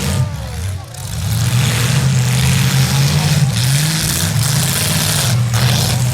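Demolition derby cars' V8 engines running and revving, their pitch rising and falling.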